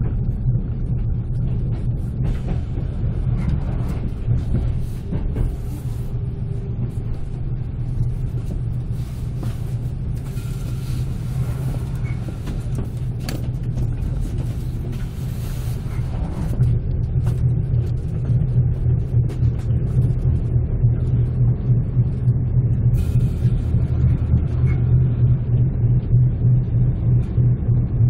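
Passenger coach of an express train rolling along the track, heard from inside: a steady low rumble with scattered clicks, growing louder and more pulsing about halfway through.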